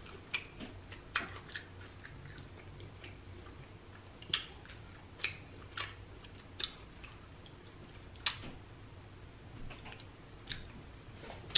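Close-miked chewing of crunchy breaded deep-fried seafood: irregular crisp crackles and mouth clicks, about a dozen, spaced a second or so apart.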